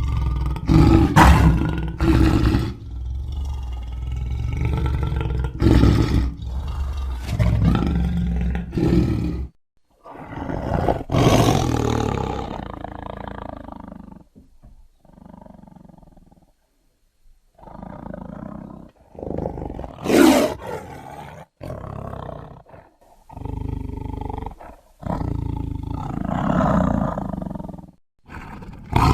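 A series of big-cat roars and growls serving as sabre-toothed cat (Smilodon) sound effects. There are long calls in the first half, a brief lull past the middle, then shorter calls one after another.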